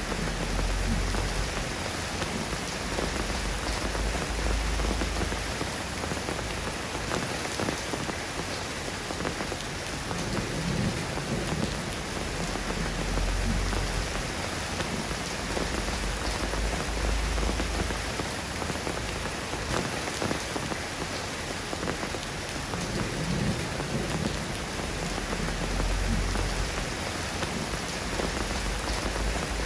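Steady rain falling, an even hiss of drops. Underneath it, a deep low rumble swells and fades about every twelve seconds.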